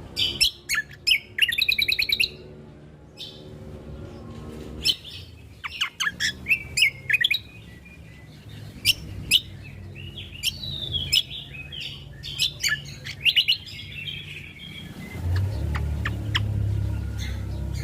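Cucak kombo (kecial kombo) bird singing: bursts of rapid high chirps and whistled notes, broken by short pauses. A low steady hum comes in about three-quarters of the way through.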